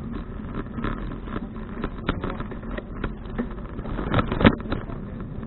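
Rolling rumble of a Fuji Touring bicycle on the road, with scattered rattling knocks and a louder clatter about four seconds in.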